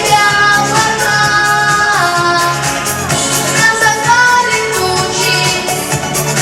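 A boy singing a pop-style children's song over instrumental accompaniment with a steady beat.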